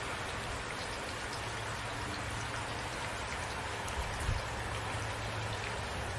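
Steady rain falling, with individual drops ticking over an even hiss and a low rumble underneath. A brief low thump about four seconds in.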